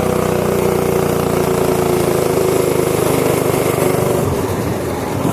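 Small single-cylinder pit bike engine pulling hard at high revs as the bike is ridden flat out, its pitch sagging slightly and easing off near the end.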